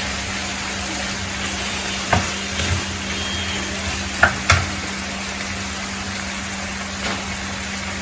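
Chicken and white onion frying in olive oil in a pan, a steady sizzle. A utensil knocks against the pan a few times as it is stirred, about two seconds in and twice more around four and a half seconds.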